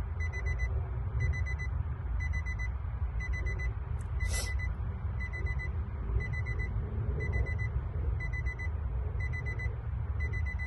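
A car's electronic warning chime beeping steadily, a short pitched beep pattern repeating about once a second, over a steady low rumble. A brief rustle or clatter cuts in about four seconds in.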